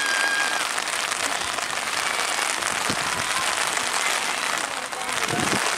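Steady rain falling, a dense even hiss of drops, with faint distant shouts from the field.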